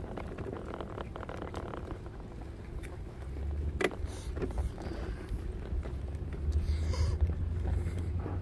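Wind rumbling on the microphone during a walk, growing stronger after about three seconds, with footsteps and scattered clicks. One sharp click comes nearly four seconds in.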